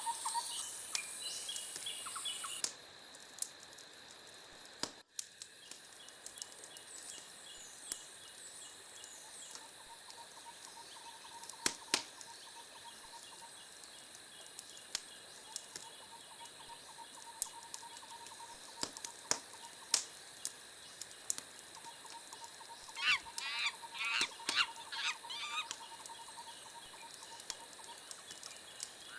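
Wood fire crackling: scattered sharp pops over a steady hiss. Faint, high, repeating chirps and trills run underneath, with a quick flurry of gliding calls a little over three quarters of the way through.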